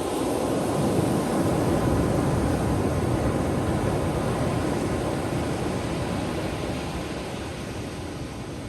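Ocean surf breaking on a beach: a wash of wave noise that swells in the first second or so, then slowly dies away.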